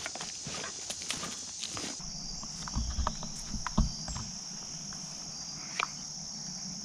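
Steady chorus of insects, crickets or katydids, trilling high and unbroken, with scattered light clicks and knocks and a few dull thumps about three to four seconds in.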